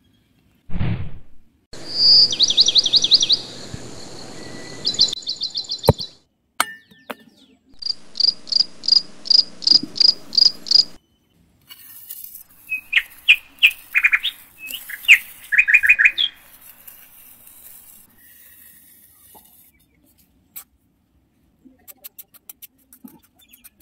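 Small birds chirping in several separate runs of short, high notes, one run evenly repeated about three times a second. A short low thump comes just before the first run.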